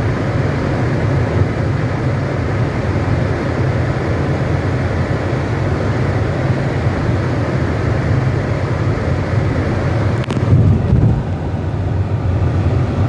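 Steady rumble and rushing air inside a car's cabin: the AC blower set to the front windscreen demister with the engine running, clearing a fogged windscreen. A click about ten seconds in, after which the hiss is a little softer.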